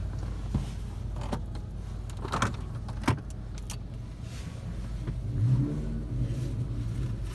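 Inside a stationary car's cabin: a steady low rumble of the idling car, with several short clicks and taps in the first few seconds. A low hum with a few pitched tones joins about five seconds in.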